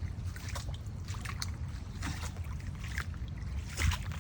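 Flood water trickling and dripping as small, scattered splashes and ticks over a steady low rumble, with a single thump about four seconds in.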